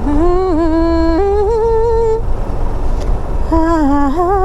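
A voice humming or singing long held notes, one lasting about two seconds from the start and another beginning about a second before the end, over the steady low rumble of a motorcycle engine and wind.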